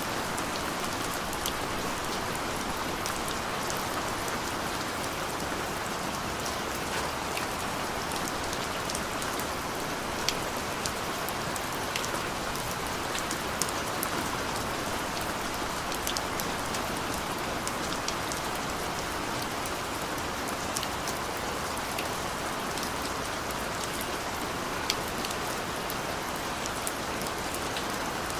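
Steady rain falling, a dense even hiss with many separate drops ticking sharply on a hard surface.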